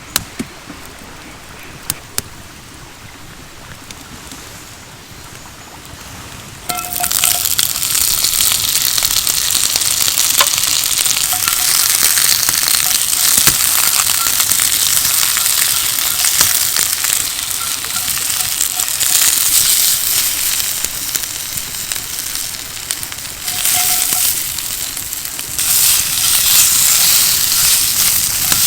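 A few light clinks, then about seven seconds in a sudden loud sizzle as food hits a hot pan. It keeps frying steadily through the rest.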